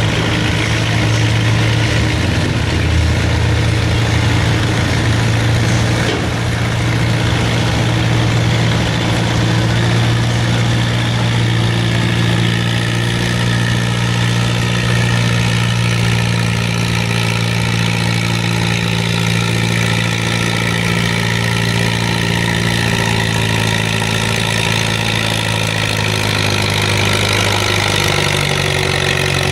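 Modified pulling tractor's engine idling steadily at a low, even pitch.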